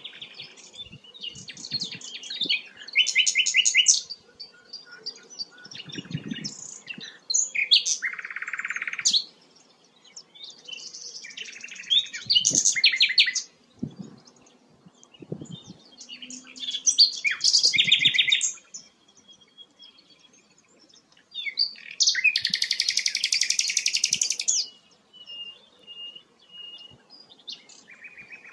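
Songbird song in varied phrases: fast runs of repeated notes, harsh buzzy stretches and short clear whistles, broken by brief pauses.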